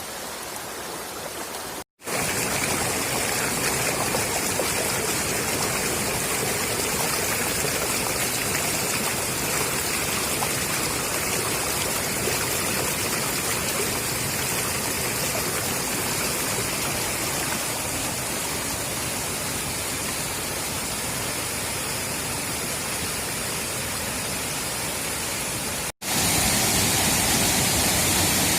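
Waterfall rushing: a loud, steady wash of falling water. It drops out for an instant about two seconds in and again near the end, and the level jumps each time, where the footage is cut.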